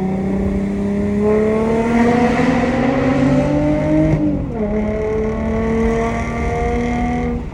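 Mercedes-Benz W204 C300's V6 engine and exhaust pulling hard under acceleration, the pitch rising steadily; about four seconds in the revs drop sharply on an upshift, then climb again in the next gear.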